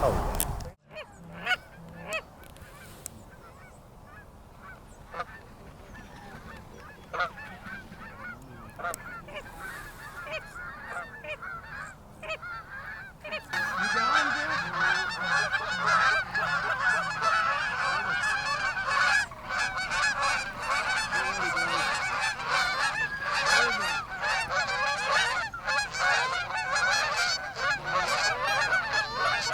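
Geese honking: a few scattered calls at first, then from about halfway a large flock calling continuously, many overlapping honks.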